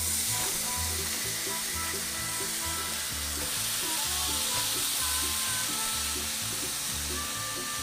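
Raw chicken pieces sizzling in a hot cast iron skillet, a steady hiss, with background music and a regular bass beat underneath.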